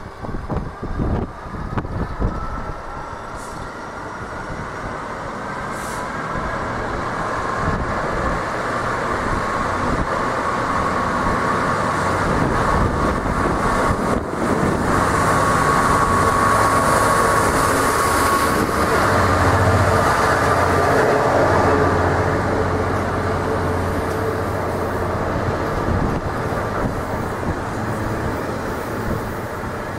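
Train passing through the station, its noise building over several seconds to loudest around the middle and then holding, with steady high tones over the rumble. Wind buffets the microphone in the first couple of seconds.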